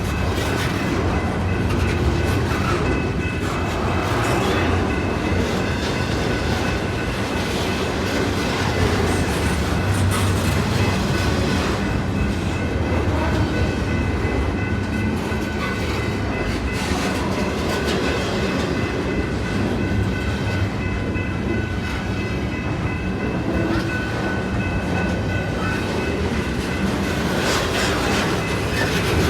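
Intermodal freight train's cars rolling past: a steady rumble of steel wheels on rail, with clickety-clack over the rail joints and a faint high ringing held steady above it.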